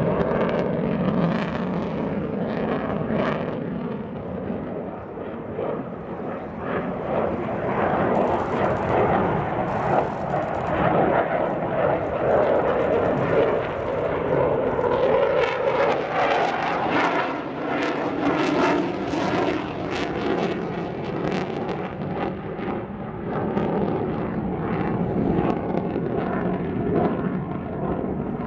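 Fighter jet engine noise: a loud, continuous rush that dips for a few seconds early on and swells again.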